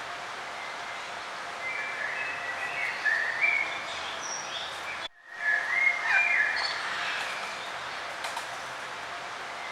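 Several songbirds chirping and singing in short phrases over a steady background hiss of outdoor ambience. The sound drops out for a moment about halfway through, then the birdsong resumes.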